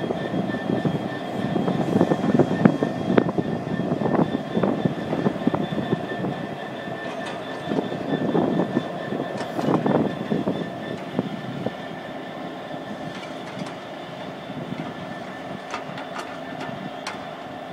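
Freight train behind a Class 66 diesel locomotive rolling past, its wagon wheels clanking irregularly over the rail joints, with a faint steady high whine. It grows quieter after about ten seconds as the train draws away.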